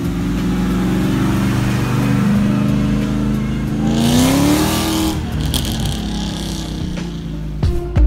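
Classic BMW 02-series car's engine running as it pulls away, the pitch climbing under acceleration about halfway through and then easing back.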